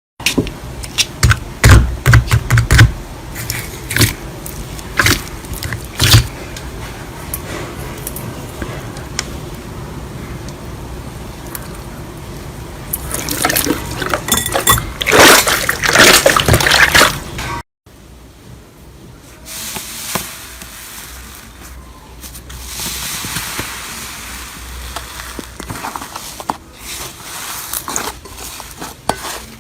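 Slime being squeezed and worked by hand: wet clicks and pops, then bursts of crackling squish. Partway through the sound cuts off abruptly and another, quieter stretch of slime squishing follows.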